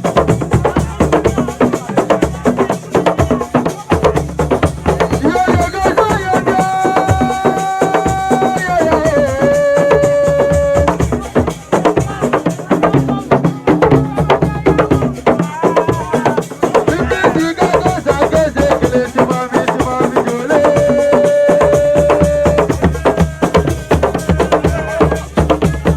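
Assiko music: fast, dense drumming with rattles, with long held melodic notes over it, one sliding down in pitch about a third of the way in.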